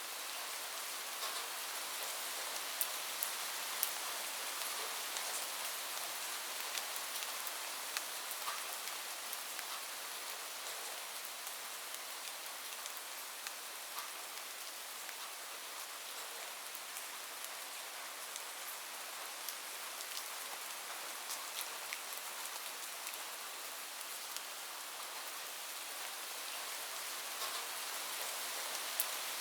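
Steady rain falling on a roof, a continuous hiss with scattered sharp taps of individual drops.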